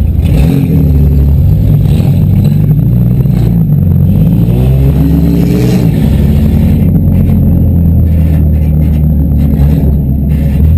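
Demolition derby car engines running loud and revving, with one rev rising and falling about four to six seconds in.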